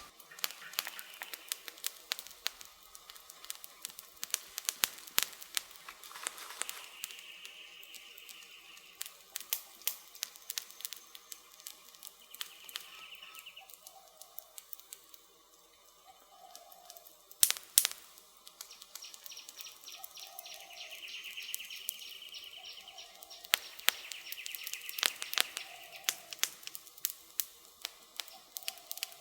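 Wood campfire crackling, with many sharp pops and a loud snap about seventeen seconds in. Short bird calls sound now and then in the background.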